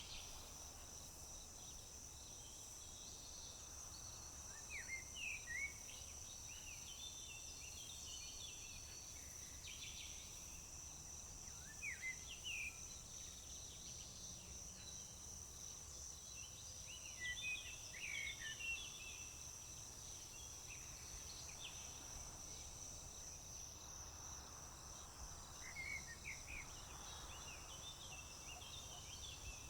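Crickets trilling in a steady high-pitched drone, with birds calling in short bursts of chirps about five seconds in, around twelve seconds, again around seventeen to eighteen seconds, and near the end.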